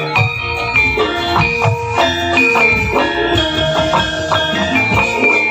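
Javanese gamelan ensemble playing: struck bronze metallophones ring out in a busy interlocking rhythm, with drum strokes underneath.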